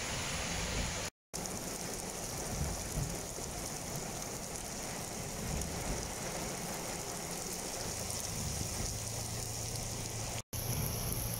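Heavy rain falling steadily on a paved road, an even hiss of downpour. It drops out briefly twice, about a second in and near the end.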